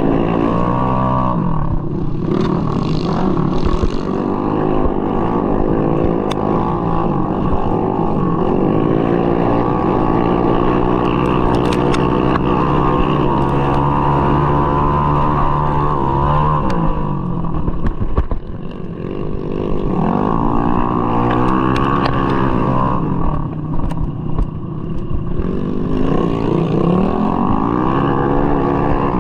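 Tuned Mahindra Rodeo scooter with its single-cylinder engine bored up to 200cc, racing at full throttle. The engine revs rise and fall again and again, with short drops off the throttle about two-thirds of the way through and again a few seconds later.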